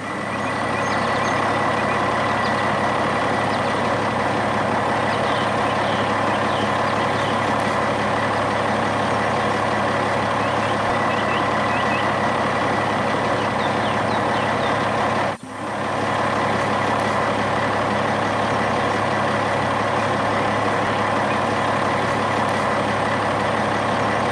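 Heavy vehicle engine running steadily, with a brief cut-out about fifteen seconds in before it carries on unchanged.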